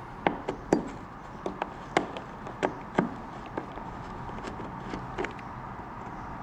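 Sharp taps and clicks of a screwdriver working at old flathead screws in a wooden sash-window frame: about ten irregular knocks in the first three and a half seconds, then two more near the end.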